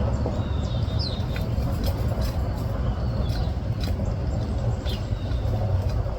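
Small birds chirping, with short scattered calls and quick falling notes, over a steady low rumble.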